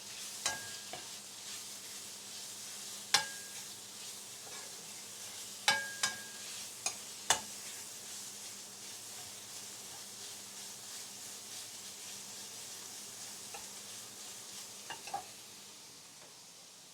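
Chicken frying in green curry paste, a steady sizzle, with a spatula knocking against the pan several times, most of them between about three and seven seconds in. The sizzle fades near the end.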